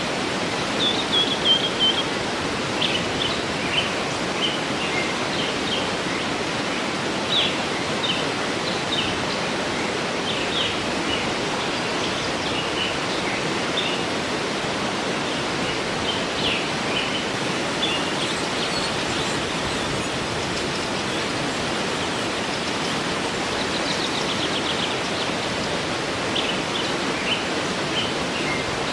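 Waterfall rushing steadily, with songbirds chirping and calling over it in short, scattered phrases, busiest in the first several seconds and again near the end.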